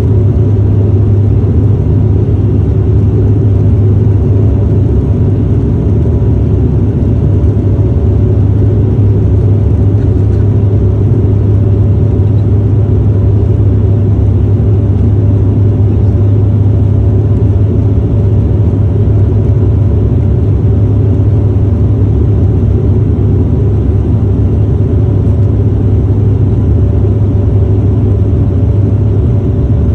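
Steady low drone of an airliner's cabin during the approach: engine and airflow noise, with a few faint steady hum tones above it.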